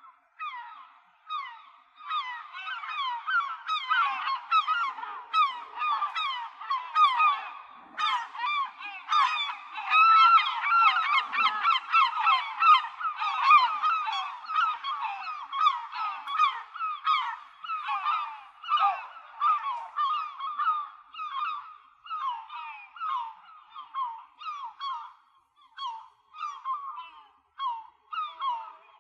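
A flock of gulls calling over one another in many short, downward-slurred notes. The calls are densest through the middle and thin out to scattered calls near the end.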